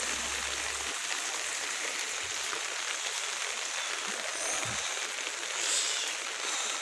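Heavy rain falling steadily on flooded ground and puddles: an even hiss.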